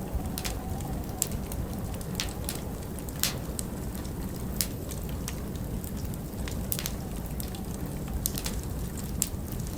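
Wood fire burning in a large stone fireplace, with sharp, irregular crackles and pops about once or twice a second over a steady low rumble of flame and wind.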